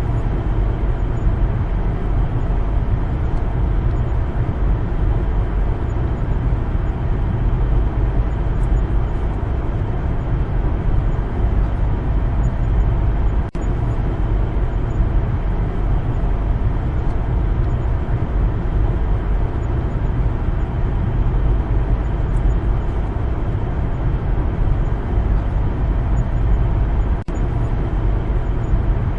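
Car driving along a road: a steady low rumble of tyre and engine noise. It drops out for an instant about 13 seconds in and again near the end.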